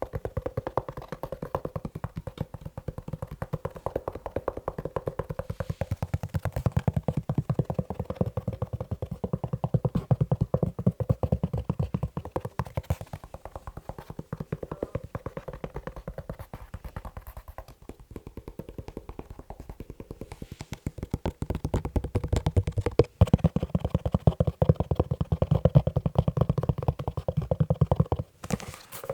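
Fast, continuous tapping on a leather shoe, many dull taps a second, with two brief pauses near the end.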